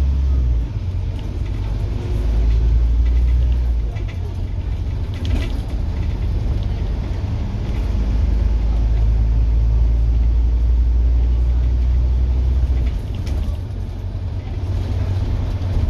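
Scania N230UD double-decker bus's five-cylinder diesel engine pulling hard, a deep rumble that swells and drops back several times, with a long hard pull in the middle.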